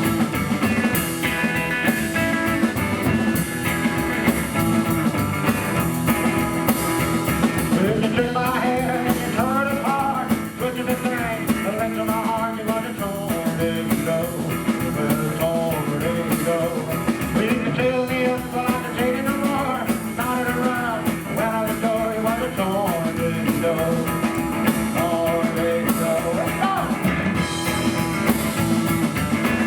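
Rockabilly trio playing live: electric guitar, slapped double bass and drums with a driving beat. A wavering melody line comes in about eight seconds in and drops out near the end.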